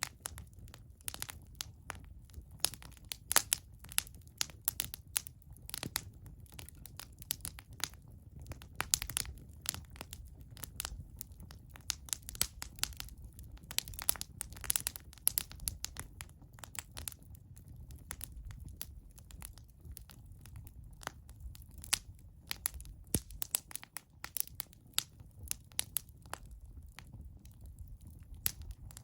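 Wood fire crackling, with irregular sharp snaps several times a second over a low steady rumble.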